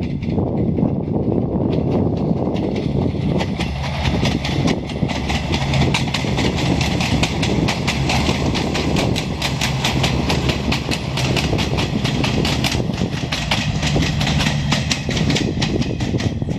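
Diesel multiple-unit passenger train passing close by: a steady engine drone under a rapid run of clicks from the wheels on the rails.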